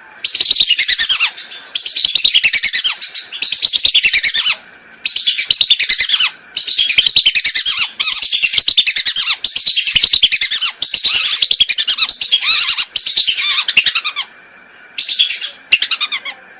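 Whistling duck (belibis) calling: about a dozen loud, rapid chattering whistled phrases, each sliding down in pitch, repeated with short gaps and two shorter calls near the end. This is a lure call.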